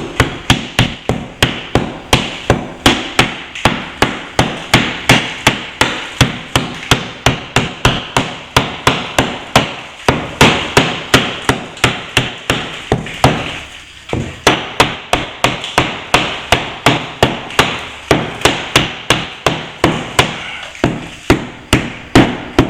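Steady, rapid hammer blows, about two to three a second with a short pause partway through, chipping out plaster along the joint between a plasterboard ceiling and a solid plaster wall to open up the crack.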